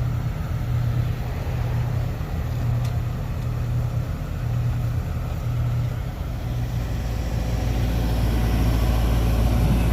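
A large engine running steadily with a pulsing hum, turning to a deeper, louder rumble about two-thirds of the way through.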